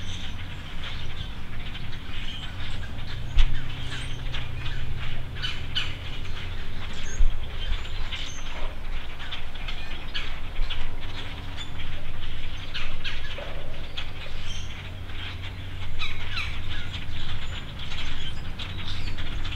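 Small birds chirping over a steady low hum, with two soft bumps about three and seven seconds in.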